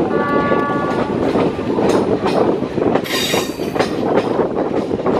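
Passenger coach wheels rumbling and clattering over the rails, heard from aboard a moving Indian express train. A short multi-tone horn sounds for about the first second, and a high wheel squeal rises about three seconds in as the train runs through a curve.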